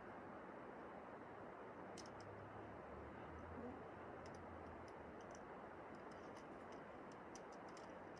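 Faint metallic clicks and clinks of trad climbing gear, carabiners and cams on the rack, scattered irregularly from about two seconds in over a steady background hiss.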